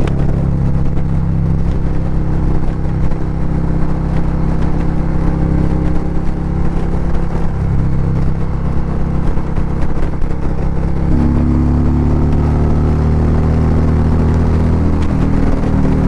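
Harley-Davidson V-twin touring motorcycle running at highway speed, heard from the rider's seat, its exhaust 'very poppy' in the cold weather. The engine note steps up to a higher pitch about two-thirds of the way through.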